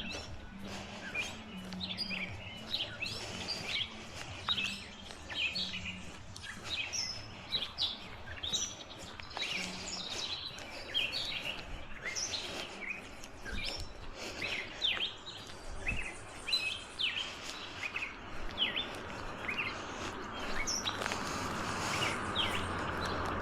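Songbirds chirping and singing, a steady run of short, high calls. Near the end, tyre noise from a car coming up the road grows steadily louder.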